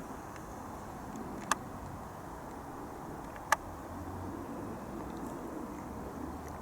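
Distant rumble of a Boeing 737 jet airliner, growing a little louder about four seconds in, over steady outdoor background noise. Two sharp clicks come in, one about a second and a half in and one about three and a half seconds in.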